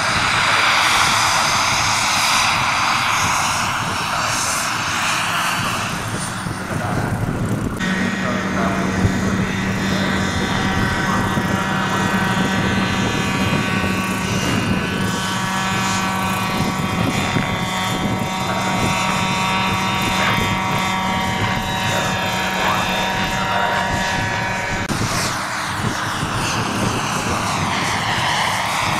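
Jet-turbine scale RC helicopter flying, its turbine whine and rotor noise continuous. A rushing sound sweeps up and down as the model passes, then changes suddenly to a steadier whine with several held tones, and the sweeping returns near the end.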